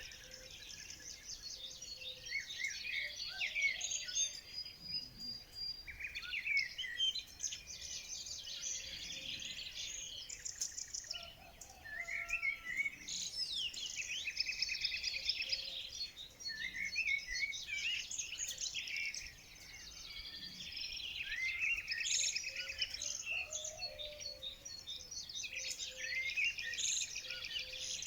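Many small birds singing at once: a dense, unbroken chorus of overlapping high chirps and quick trills.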